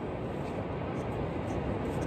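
Steady rushing noise of wind and ocean surf on the beach, heaviest low down.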